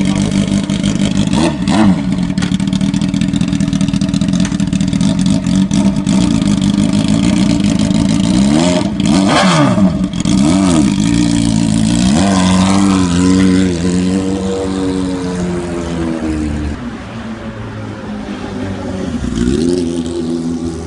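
Motorcycle engine revving: a steady running note broken by throttle blips whose pitch rises and falls, a quick one about two seconds in, a cluster around the middle, and a slower rise and fall just after, with another rev near the end.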